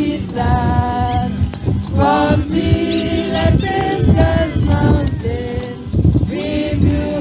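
Music of several voices singing together in held notes, like a choir.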